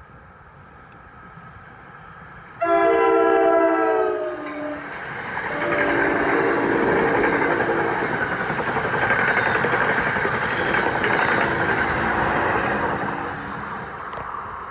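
NJ Transit train horn sounding a loud blast of a few seconds, then two longer, quieter blasts, as an electric commuter train runs past with a steady rush of wheel and car noise that fades near the end.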